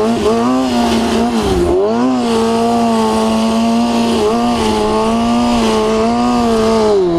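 Kawasaki ZX6R inline-four sport bike engine running under way through a Two Brothers full exhaust, holding a steady note that dips and climbs back a few times as the throttle is rolled off and on, with wind rushing past.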